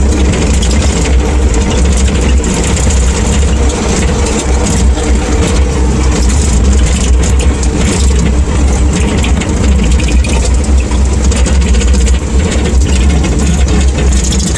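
CAT 305.5 mini excavator travelling in high speed, its diesel engine running loud and steady under load.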